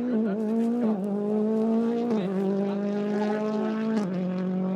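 World Rally Car engine running hard at high revs, its note held nearly steady and stepping down in pitch about two seconds in and again near the end.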